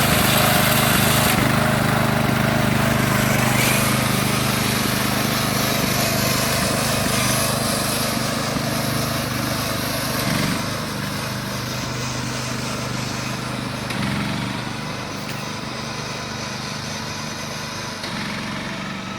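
Riding lawnmower's small engine running steadily under way, growing gradually fainter across the stretch.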